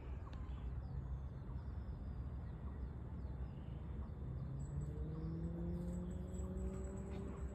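Outdoor ambience with a steady low rumble and faint bird chirps. From about halfway in, an engine's hum rises slowly in pitch, as a vehicle picks up speed.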